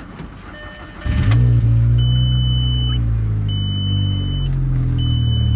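2002 Volkswagen Jetta 2.0-litre four-cylinder engine, cold, restarting after stalling: about a second in it catches and settles into a steady fast idle. A high electronic beep sounds on and off over it, three times.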